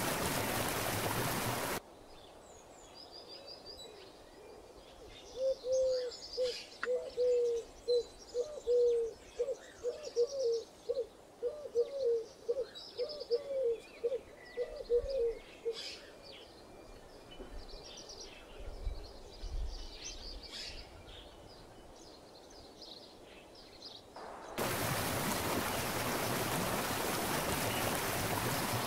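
Waterfall rushing, giving way after about two seconds to quiet woodland with small birds chirping and a bird calling a run of about twenty low, rising-and-falling notes, roughly two a second for about ten seconds. The waterfall's rush returns a few seconds before the end.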